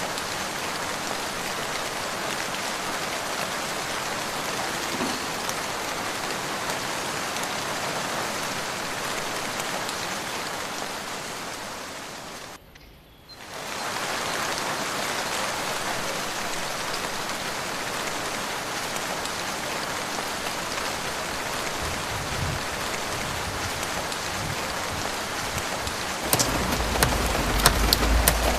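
Steady rain falling, an even hiss of drops that dips briefly to a hush about halfway through. Near the end a deep rumble and several sharp close taps come in over the rain.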